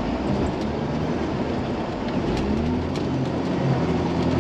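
Truck engine running under load as it works through snow, its pitch rising and falling a little about halfway through.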